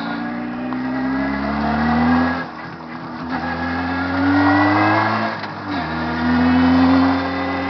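Jawa 634 350 cc two-stroke twin motorcycle engine under way, climbing in pitch as it accelerates and dropping at gear changes about two and a half and five and a half seconds in. The engine is being run in.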